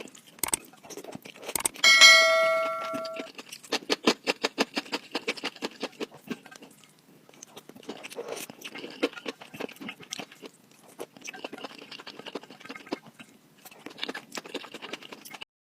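Close-miked eating: chewing and wet mouth clicks and crackles, densest in the middle. About two seconds in there is one clear ringing clink of a utensil against a dish, which fades over about a second.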